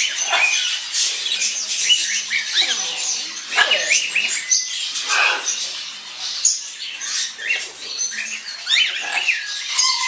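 Many caged pet birds chattering and squawking together: a dense, continuous mix of short, high chirps and squawks.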